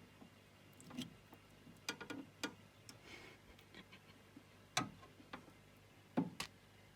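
Faint, scattered clicks and taps, a second or two apart, with two close together near the end.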